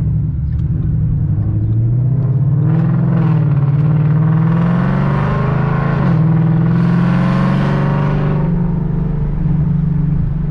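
Car engine running loud and accelerating, its pitch rising over the first few seconds, dipping sharply about six seconds in, then running on steadily.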